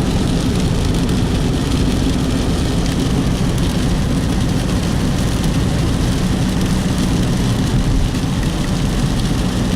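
A car's engine and road noise, steady and unbroken, heard from inside the cabin while driving.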